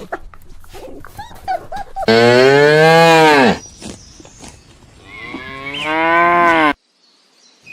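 Cow mooing twice: a long low call a couple of seconds in that falls off at the end, then a second one that cuts off suddenly near the end.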